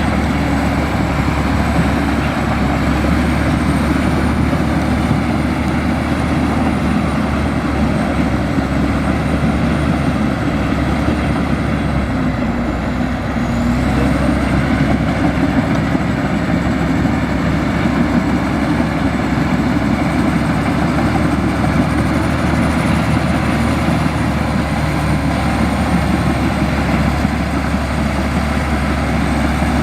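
Heavy diesel earthmoving machinery running steadily under load, with a thin high whine that wavers slightly in pitch.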